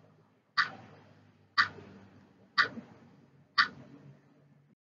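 Clock-tick sound effect, one sharp tick a second, four ticks in all: a quiz countdown timer marking thinking time before the answer is revealed.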